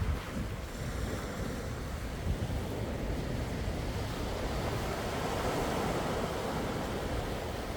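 Calm sea surf washing in steadily, swelling a little in loudness through the middle, with a low rumble of wind on the microphone.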